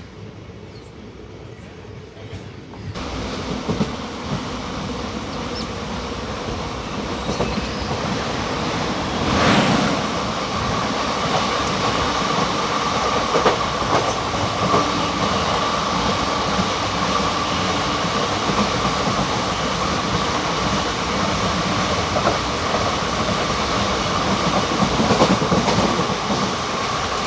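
An Indian Railways express train passing through the station. Its noise rises suddenly about three seconds in and stays loud, and a steady high whine comes in about ten seconds in.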